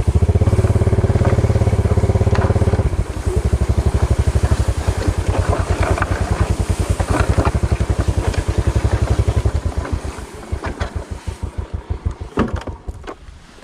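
Small motorbike engine running steadily under load on a rough, slippery dirt track, its note dropping about three seconds in. The bike knocks and rattles over the ground, and the engine slows and fades to uneven low pulses near the end.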